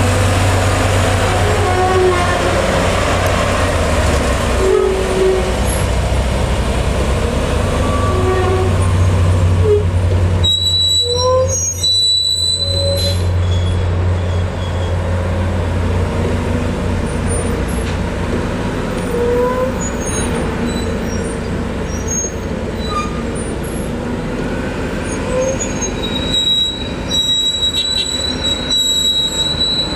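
Heavy diesel truck engine running with a steady low drone, with short high squeals and thin whining tones over it, one held for about two seconds near the middle.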